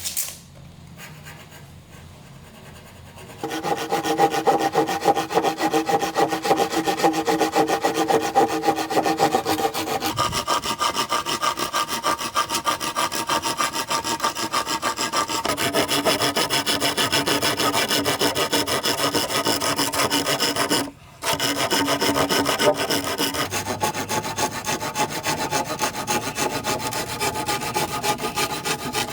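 Hand tool working bamboo, most likely a saw cutting through a culm, in rapid, even strokes with a ringing tone that shifts pitch several times. It starts a few seconds in and pauses briefly about two-thirds of the way through.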